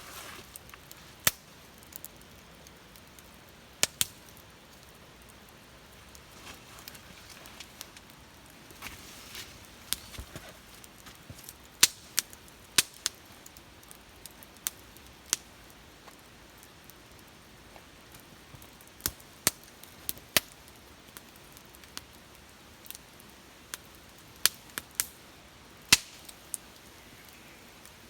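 Wood fire crackling: sharp, irregular pops, some in quick pairs and others a few seconds apart, over a faint steady hiss.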